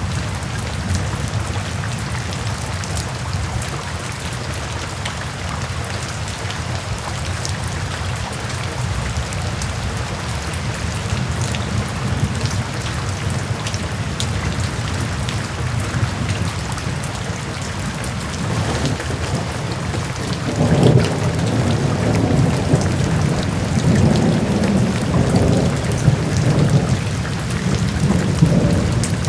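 Steady heavy rain hissing and pattering, with a long roll of thunder rumbling in about two-thirds of the way through and continuing to the end.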